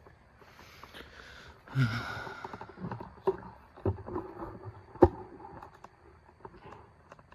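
Rustling handling noise, then a scattering of small knocks and clicks, with one sharp, loud click about five seconds in.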